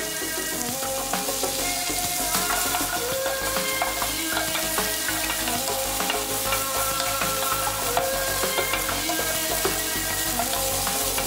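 Diced sausage sizzling in oil in a nonstick frying pan, stirred with a wooden spatula that taps and scrapes the pan, over light background music.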